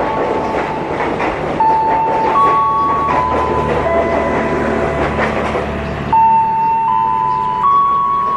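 Passenger train rolling past, its wheels clacking over the rail joints under a dense rumble. Several high steady tones step between pitches throughout.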